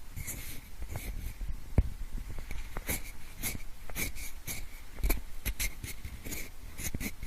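Pencil scraping and rubbing close to the microphones in imitation of ear cleaning: irregular short scratches and soft clicks one after another, with a heavier knock about two seconds in and another about five seconds in.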